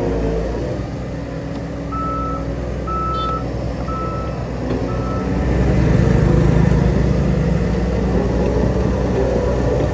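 Heavy diesel earthmoving machine running steadily while its reversing alarm beeps four times, about once a second. The engine grows louder about halfway through.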